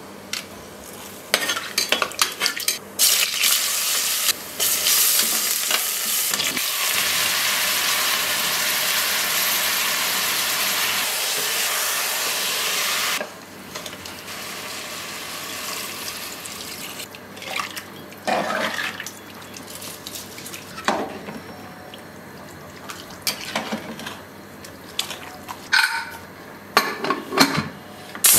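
Food frying in hot oil in an aluminium pressure cooker: a steady sizzle for about ten seconds that cuts off abruptly. After that come irregular scrapes and clinks of metal tongs stirring chicken masala in the pot.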